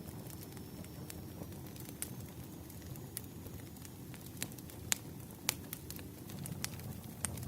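Wood fire crackling: irregular sharp pops and snaps over a low steady rumble, with a few louder pops in the second half.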